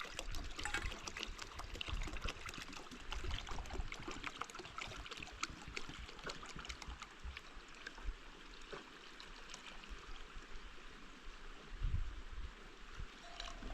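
Water trickling and splashing, with many small scattered clicks and a few soft low knocks.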